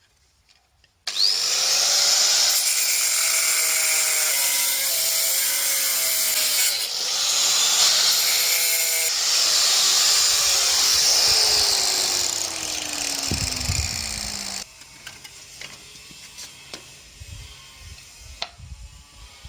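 A power disc cutter starts about a second in and cuts stone with a loud, hissing grind for about thirteen seconds. It is then switched off, and its pitch falls as the disc winds down. Quieter small knocks of handling follow.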